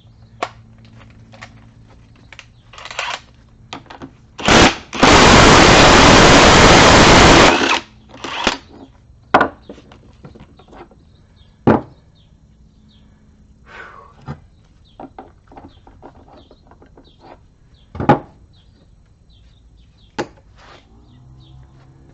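Impact wrench running in a short burst, then for about three seconds without a break, taking the front yoke nut off an NP229 transfer case. Scattered clanks and clicks of tools and parts come before and after.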